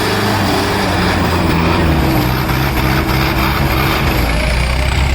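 Tractor diesel engines running hard under full load in a tug-of-war pull. Their pitch sags about two seconds in, then settles into a deep, steady note as the engines lug down.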